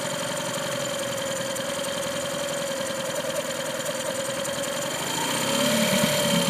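Engine running at a low, slightly wavering speed in neutral, then revving up a little near the end. It is an engine that will not rev beyond low RPM without starting to die.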